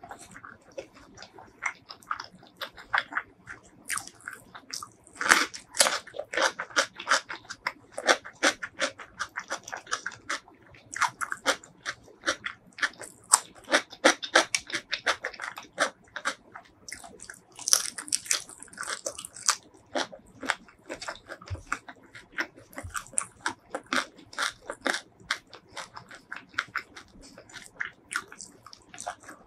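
Close-miked eating: a person chewing and biting food, with many quick, sharp, crisp mouth clicks in an irregular rhythm.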